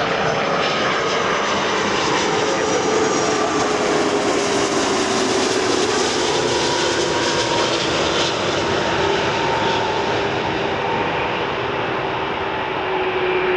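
Jet engines of a Wamos Air Airbus A330-200, Rolls-Royce Trent 700 turbofans, as the airliner lands past the observer. A steady dense jet noise carries a whine that slowly falls in pitch, strongest around the middle and easing toward the end.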